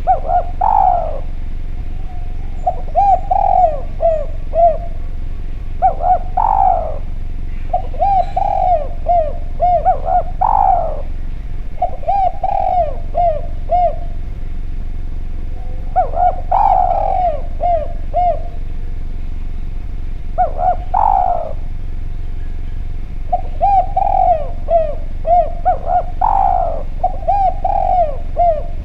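Spotted dove (derkuku) cooing loudly, phrase after phrase of several short coos, each phrase with one higher, rising note, separated by short pauses.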